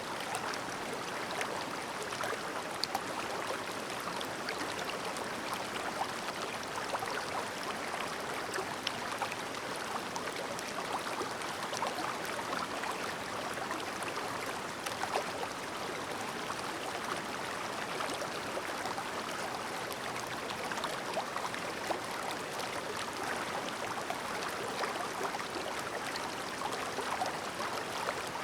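Clear mountain stream babbling steadily, a continuous rush of running water dotted with many small splashes and gurgles.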